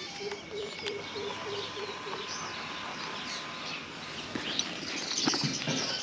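Birds chirping and calling, with a quick string of short low beeps in the first two seconds and a faint steady whine under them; a few knocks of handling near the end.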